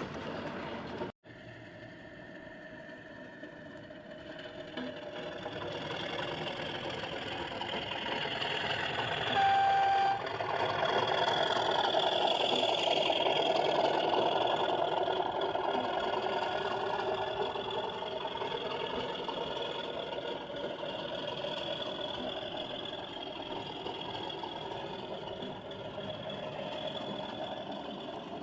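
Sound-fitted 00 gauge Accurascale Class 37 model locomotive running, its diesel engine sound swelling and then holding steady. A brief single-note horn sounds about ten seconds in.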